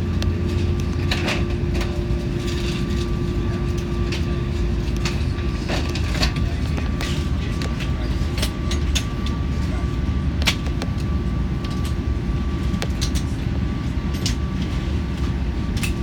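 Cabin noise inside a British Airways Airbus A380 before takeoff: a steady low rumble with a steady hum, and many small clicks and rattles scattered throughout. The hum drops out about five seconds in.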